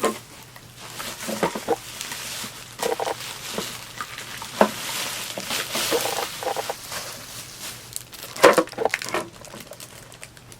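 Unpacking noise: scattered knocks and clicks of the humidifier parts and box being handled, with a stretch of rustling packaging in the middle.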